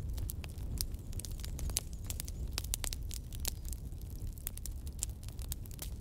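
Wood fire crackling: irregular sharp snaps and pops, several a second, over a steady low rumble of burning.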